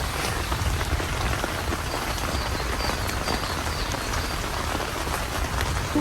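Steady rain falling, an even hiss of drops with faint short high chirps now and then.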